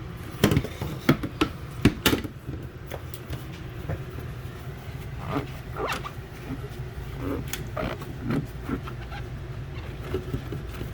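A sponge scrubbing and wiping a refrigerator's plastic surfaces, with irregular knocks in the first two seconds and short squeaky rubs later. A steady low hum runs underneath.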